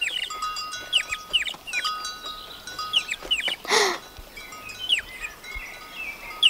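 Cartoon bird chirping: many quick, high, falling tweets in rapid runs, mixed with soft chime-like held tones. One louder, harsher sound comes just before the four-second mark. The chirps are the peeping of the small bird that has fallen to the ground with an injured wing.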